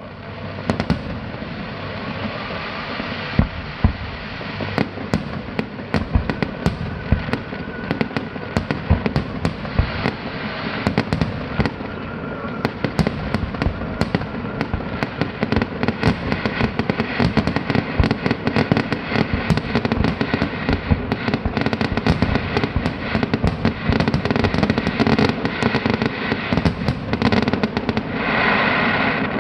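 Fireworks display: a dense, irregular run of sharp bangs and pops, often several a second, over a continuous loud din.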